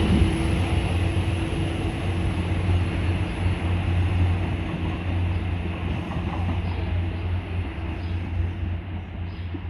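Diesel multiple unit's underfloor engines running, a steady low drone that slowly fades.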